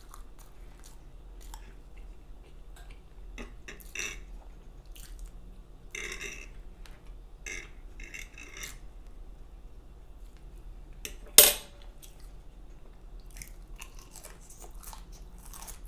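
Close-miked chewing of food, with scattered light clicks of utensils against a plate; one sharper, louder clink comes about eleven seconds in.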